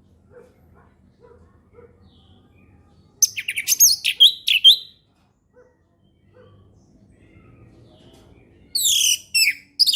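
Orange-headed thrush singing: two short phrases of quick, varied whistled notes, one about three seconds in and another near the end.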